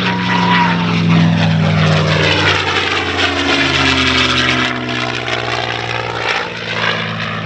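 P-51D Mustang's Merlin V-12 engine running at power as the fighter flies past. Its note drops in pitch about three and a half seconds in as it goes by.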